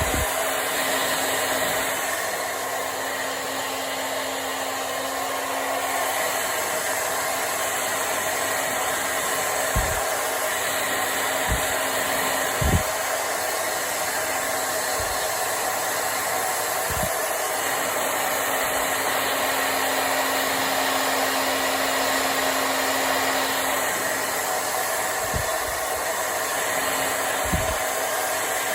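Handheld hair dryer running steadily, a continuous rush of blown air with a steady low hum underneath, while hair is being dried. A few soft low thumps break in, the strongest about halfway through.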